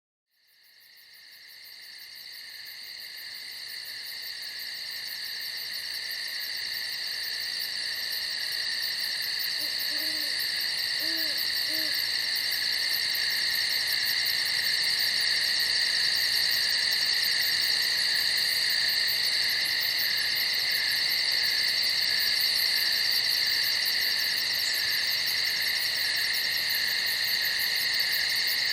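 Crickets chirring in a steady, shrill chorus at night, fading up from silence over the first several seconds. A few faint low hoots come about ten to twelve seconds in.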